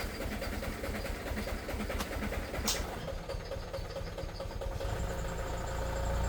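A motor engine running with a steady low rumble, growing louder near the end, with a single sharp click partway through.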